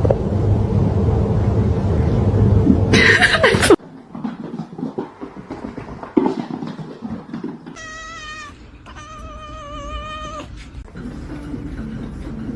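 A cat gives two long, wavering meows, one after the other, about eight seconds in. Before that comes a few seconds of loud, even noise that cuts off suddenly.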